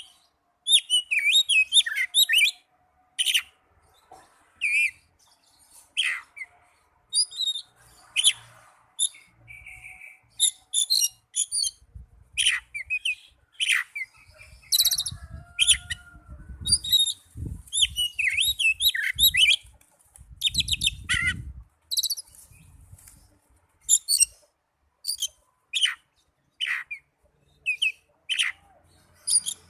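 Oriental magpie-robin (kacer) in fighting song: a rapid run of sharp chirps, trills and loud whistled notes with short pauses, sung to provoke a rival and make it spread its tail. A low rumble sits under the song through the middle.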